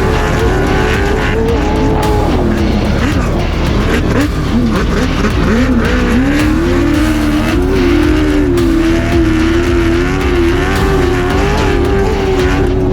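Trophy truck engine running hard at high revs over a heavy low rumble. The pitch drops and climbs back between about two and seven seconds in, as the throttle is lifted and reapplied, then holds high.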